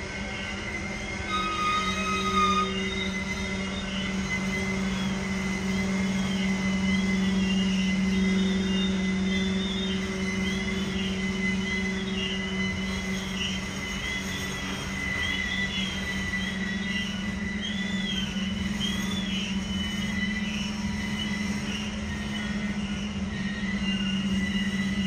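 BNSF covered hopper cars rolling around a tight curve, their wheels squealing against the rail in a high, wavering whine that rises and falls over and over, above a steady low hum.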